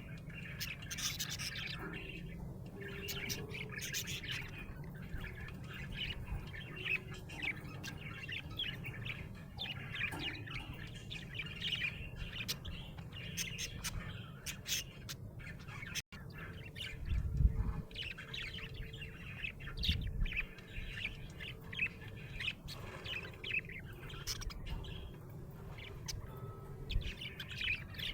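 Budgerigar chirping and chattering in quick, busy runs of short chirps throughout, over a steady low hum, with a couple of low thuds about two-thirds of the way through.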